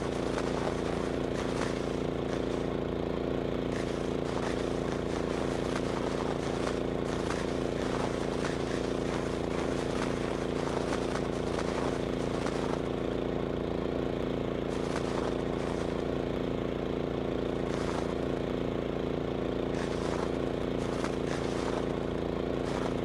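Tractor engine running steadily at an unchanging pitch, with light clicks and rattles over it.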